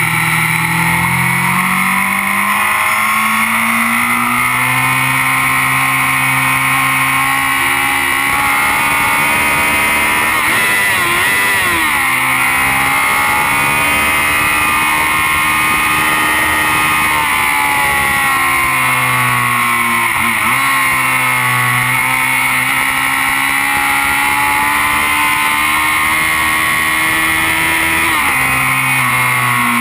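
Kawasaki Z750 inline-four motorcycle engine pulling hard at track speed, its note climbing under acceleration and dropping abruptly at gear changes about twelve seconds in and near the end, and easing off briefly about two-thirds of the way through. Heavy wind rush over the microphone runs underneath.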